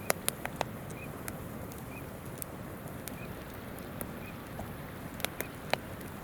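Wood campfire crackling, with a few sharp pops in a cluster just after the start and again near the end, over the steady rush of a flowing river. A faint short bird chirp repeats about once a second.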